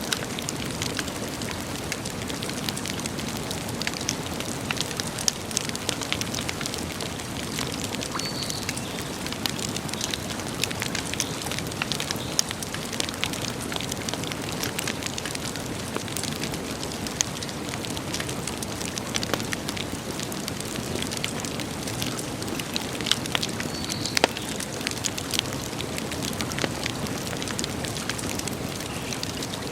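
Wood campfire burning steadily: many small crackles and sharp snaps over a constant rushing hiss, with a few louder pops.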